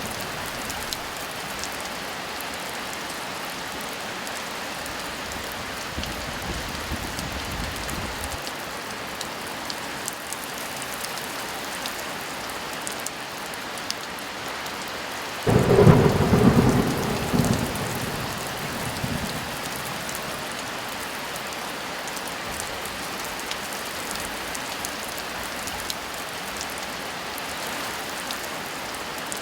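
Steady heavy rain falling, with a low roll of thunder about six seconds in. About halfway through comes a loud thunderclap that breaks in suddenly and rumbles away over a few seconds.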